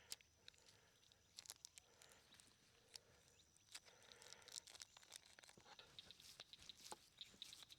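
Near silence with faint, scattered crinkles and small clicks: plastic meat-tube wrapping and aluminium foil being handled while a burger patty is pulled from ground beef.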